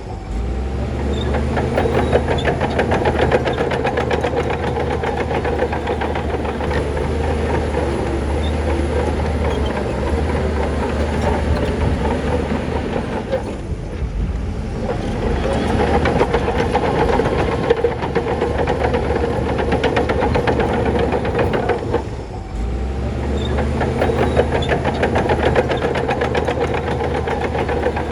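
Heavy diesel earthmoving machinery running steadily with a continuous metallic clatter. The sound eases off briefly about halfway through and again some seconds later, then comes back up.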